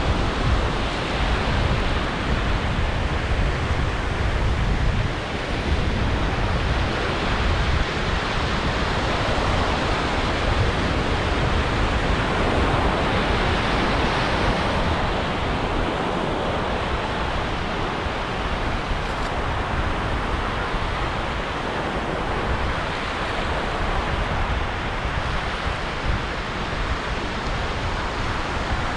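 Ocean surf washing onto a beach: a steady rush of breaking waves that swells and eases slowly, with a deep low rumble underneath.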